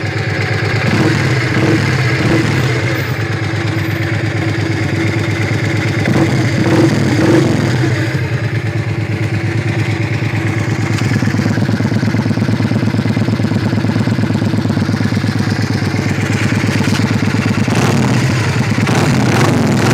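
Yamaha XV400 Virago's 400 cc air-cooled four-stroke V-twin idling, blipped with the throttle a few times: short revs about a second in, a longer pair around the middle of the first half, and one more near the end, settling back to a steady idle between.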